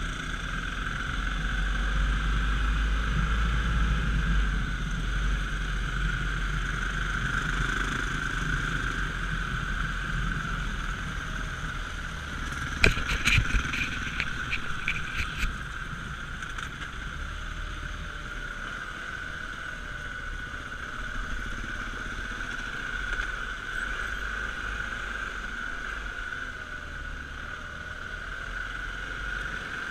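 Dirt bike engine running on the move under a steady low rumble, its pitch wavering up and down. A short rapid run of sharp clicks or rattles comes about 13 seconds in.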